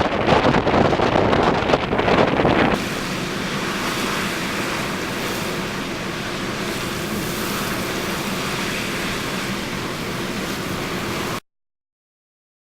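Violent wind gusts buffeting the microphone, then about three seconds in a sudden change to a steadier rush of wind-driven waves. The sound cuts off abruptly near the end.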